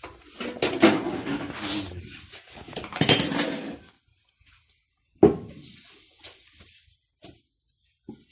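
Metal tools and parts clattering and scraping during hand work on an engine, then a single sharp knock about five seconds in.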